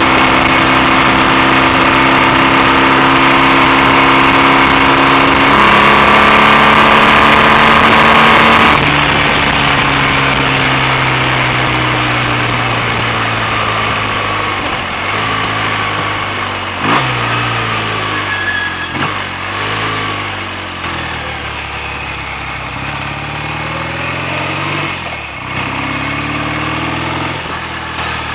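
BSA A65 650 cc parallel-twin engine being ridden on the road with wind rush. Its note holds steady, then steps up about five seconds in. Near nine seconds the wind noise drops away and the engine slows, its pitch falling and rising several times through the rest.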